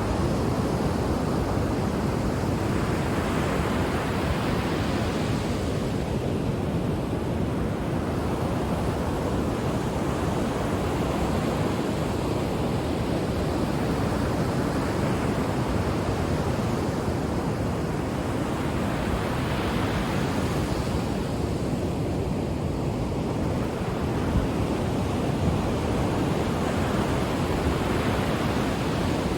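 Ocean waves washing onto the shore: a continuous rush of surf that swells and eases as each wave comes in, every several seconds.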